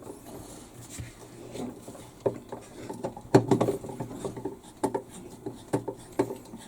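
Hard clicks and clattering knocks of a tool and metal and plastic parts being handled while the washing machine's pulsator bolt is worked, several separate knocks with the loudest about halfway through.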